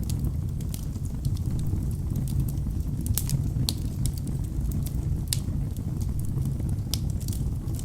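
Wood fire burning in a fireplace: a steady low rumble of flames with irregular sharp crackles and pops from the burning logs, the loudest a few seconds in.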